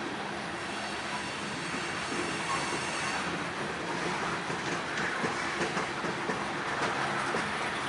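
Railroad cars rolling past, their wheels clicking over the rail joints, the clicking growing denser and a little louder about three seconds in.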